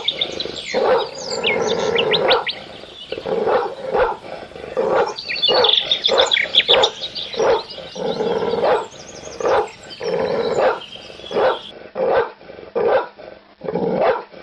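Animal calls in quick succession, mostly dog-like barks, with high bird chirps over them for most of the time.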